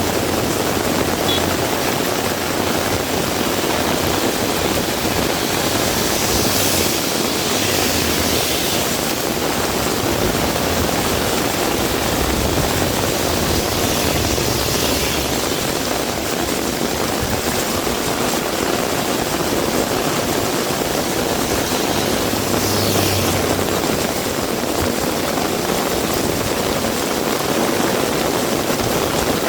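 Heavy rain pouring steadily, a dense unbroken hiss that swells briefly three times.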